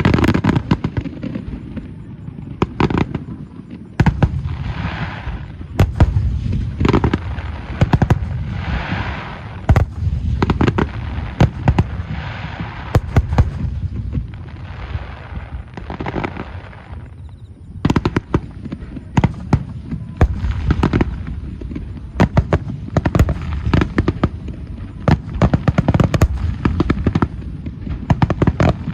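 Aerial firework shells bursting in rapid, overlapping succession, one sharp boom after another. A crackling hiss rides over the booms from about four seconds in until about seventeen seconds.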